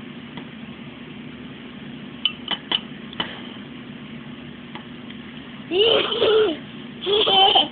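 A few light clinks of a spoon against a dish, then a baby babbling in two longer vocal sounds with pitch rising and falling, over a steady low hum.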